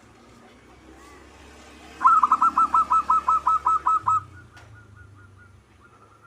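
Zebra dove (perkutut) cooing: a quick, even run of about fourteen short notes lasting about two seconds, starting about two seconds in. Faint calls of other birds sound in the background.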